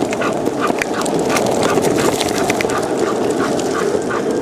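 Longboard wheels rolling on pavement with a steady rumble, over which a dog pants in quick, even breaths, about three a second.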